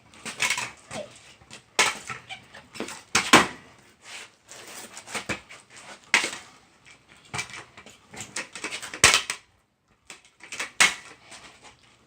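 Freestyle kick scooter clattering during trick attempts: irregular sharp knocks of the deck and wheels hitting the ground, with short rattling runs between them and a brief pause near the end.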